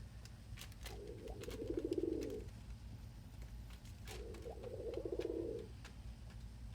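Male ringneck dove cooing twice, each a low rolling coo about a second and a half long. A few faint taps sound between the coos.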